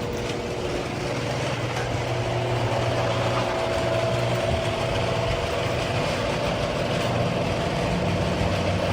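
Residential garage door opener running the door on worn builder-grade rollers: a steady mechanical drone with the rollers grinding in the tracks, a noise likened to nails down a chalkboard. This is the sound of rollers that need replacing.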